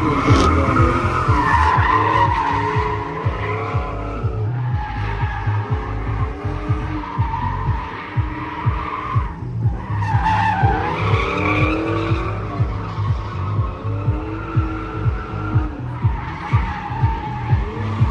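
Drift cars' engines revving up and down with tires squealing through the slides. Background music with a steady bass beat runs underneath.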